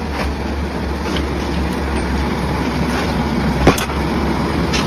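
A steady engine running, with a single sharp knock about three and a half seconds in.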